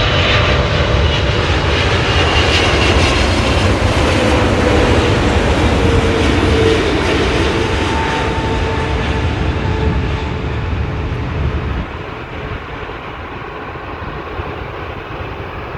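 Heavy jet airliner landing: loud engine noise with a whine that slowly falls in pitch as it passes, fading noticeably about twelve seconds in.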